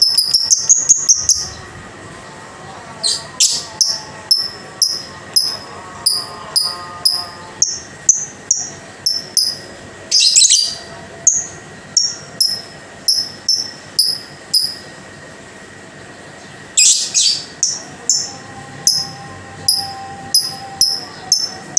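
Lovebird calling in short, sharp high chirps, about two a second, in runs with brief pauses. Three longer, harsh chattering bursts come at about 3, 10 and 17 seconds in. A faint steady high tone runs underneath.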